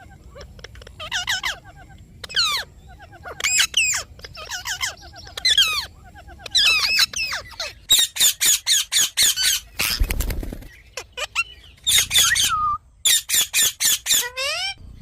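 Indian ringneck parrot giving shrill, squawking calls in short clusters, with quick runs of calls partway through and near the end. A brief rush of noise comes near the middle.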